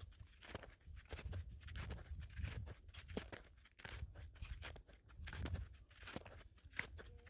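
Footsteps crunching in snow at a walking pace, with a low rumble underneath.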